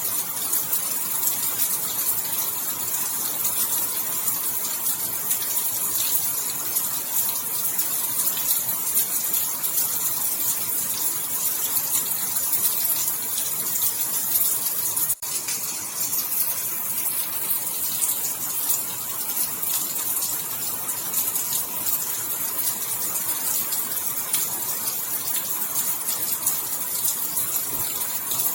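Steady heavy rain falling, a dense even hiss with a brief dropout about halfway through.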